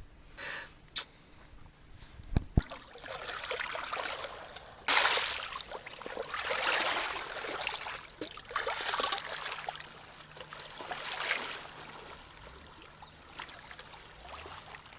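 Water trickling and splashing in irregular surges, loudest about five seconds in, after a few sharp knocks in the first seconds.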